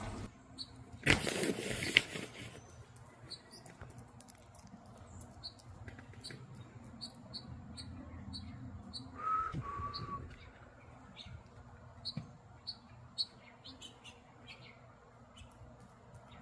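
Small birds chirping: a short, high chip repeated about twice a second, with two clear whistled notes about nine seconds in. About a second in there is a loud rushing burst lasting about a second.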